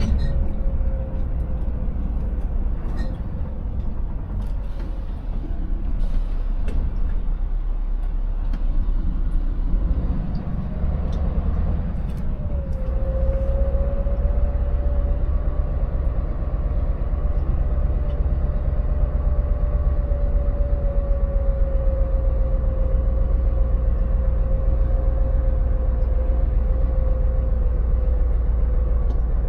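Scania 590S truck's V8 engine running under way, with a deep steady rumble and a whine that rises about halfway through and then holds.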